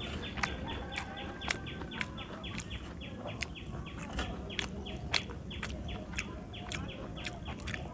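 Wet clicks and smacks of chewing and eating by hand, scattered irregularly, over a bird chirping in quick, steady repeats of about four short falling notes a second.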